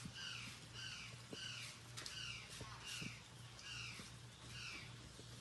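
A bird calling over and over in a steady series of short falling notes, about two a second, with faint clicks of handling in between.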